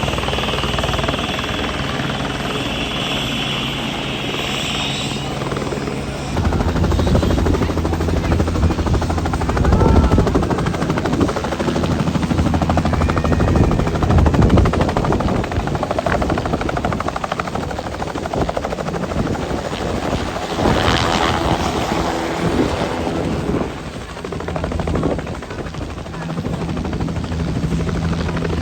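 Helicopter in flight: steady turbine whine and rotor blade chop. The whine drops away about five seconds in, and the rotor sound grows louder and heavier soon after.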